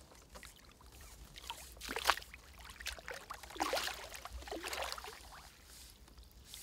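Hooked common carp splashing and thrashing at the surface, with water sloshing as a landing net goes in and scoops it up; the biggest splashes come about two seconds in and again around four seconds in.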